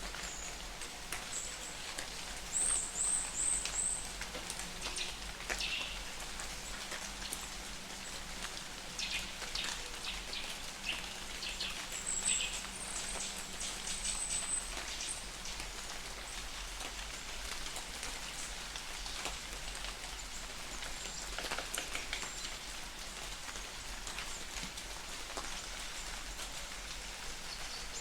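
Light rain falling in a forest, a steady hiss with individual drops striking close by. A small bird gives quick runs of high chirps twice, about three seconds in and again around thirteen seconds.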